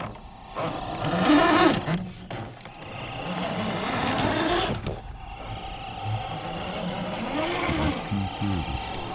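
Electric motor and gears of a scale RC crawler truck whining, the pitch rising and falling repeatedly as the throttle is worked, with a few short knocks.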